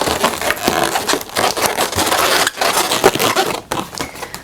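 Inflated latex twisting balloons rubbing and scraping against each other as one is twisted and tied into another, a dense run of rubbing and crackling that fades near the end.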